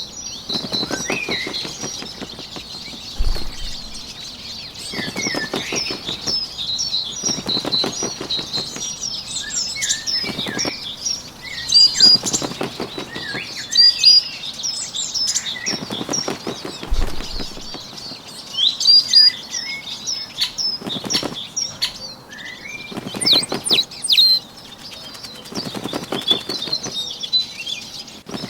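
Bird wing-flapping sound effect, a fast flutter of wingbeats lasting about a second, repeated roughly every two to three seconds over a steady bed of small birds chirping and singing.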